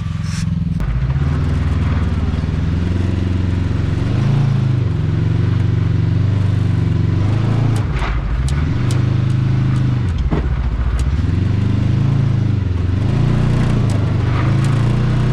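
Side-by-side UTV engine revving in repeated surges as it crawls up a rock section, with a couple of short knocks about eight and ten seconds in.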